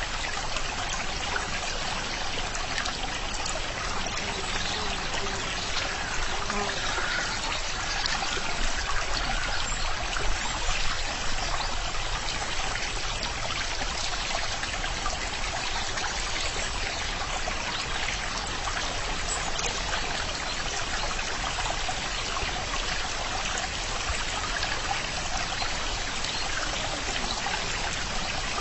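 Running water trickling and splashing steadily, as from a stream.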